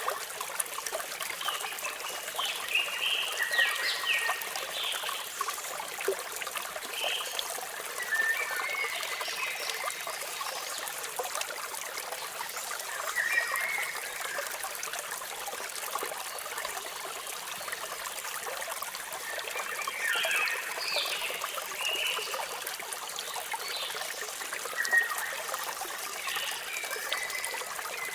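Water trickling and splashing steadily, with birds chirping in short bursts every few seconds.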